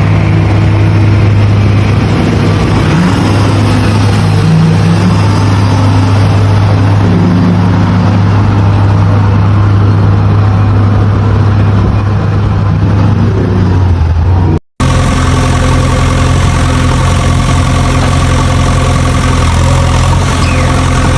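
A vehicle engine running steadily with a low hum. It cuts off abruptly about two-thirds of the way through, and a different, steadier engine sound takes over.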